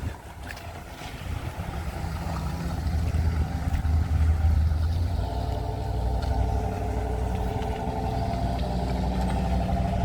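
An engine running close by, getting louder over the first few seconds and then holding a steady, even hum.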